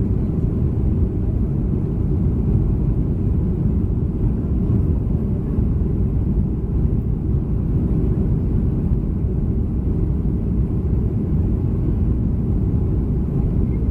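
Steady low rumble of cabin noise inside a Boeing 737-300 airliner, from its engines and the airframe.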